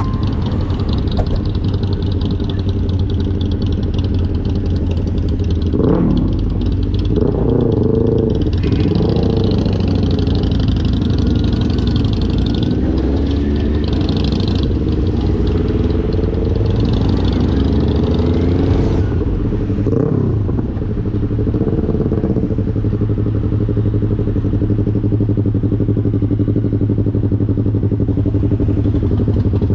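Motorcycle engine running under way, its pitch rising and falling several times as the rider changes revs and gears, over a steady low rumble.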